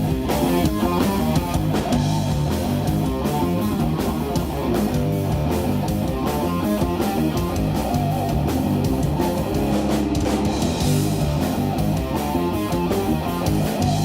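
Live instrumental jazz-rock fusion from a band: electric guitar, bass and drum kit playing together at a steady beat.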